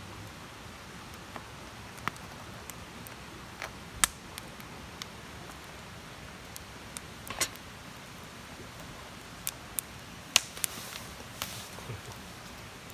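Wood campfire crackling, with a steady low hiss and sharp, irregular pops, the loudest a little over ten seconds in.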